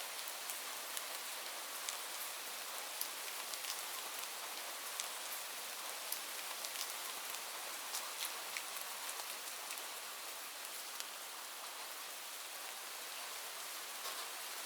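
Steady rain, an even hiss with many small sharp drop ticks scattered through it.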